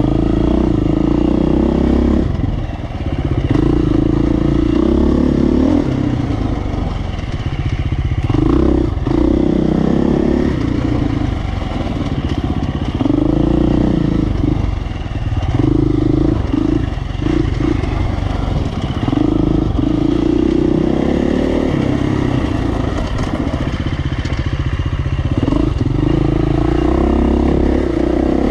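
Dirt bike engine revving up and dropping back again and again as the throttle is opened and shut, with brief dips every few seconds.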